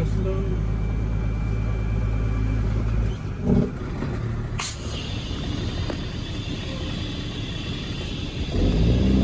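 Caterpillar C13 diesel of a Kenworth W900B dump truck idling. A little over four seconds in, a sharp blast of air is followed by a steady hiss of escaping air. Near the end the engine revs up again.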